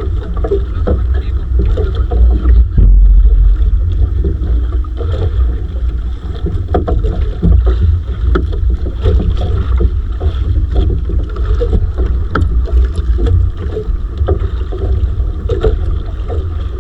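Wind rumbling on the microphone aboard a small fishing boat at sea, with scattered knocks and clicks from the boat and gear.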